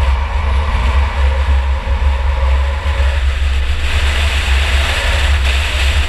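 Onboard sound of a 2004 Chevy Impala enduro car's engine running under way, a loud, steady drone over heavy low rumble. Higher-pitched road and engine noise picks up about four seconds in.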